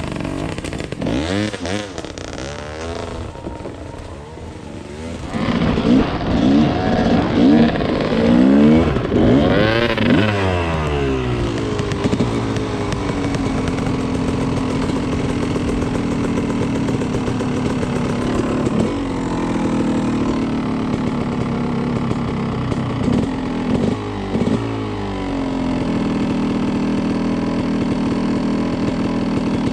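Dirt bike engines running, quieter at first, then revving, with the pitch rising and falling several times from about five seconds in; after that the engines run steadily at a more even pitch.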